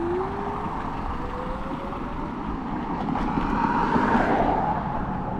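Electric scooter's hub motor whining as it accelerates, the whine rising steadily in pitch over the first two seconds, over a steady rumble of wind on the microphone and tyres on pavement. A louder swell of road noise with a higher whine comes about four seconds in.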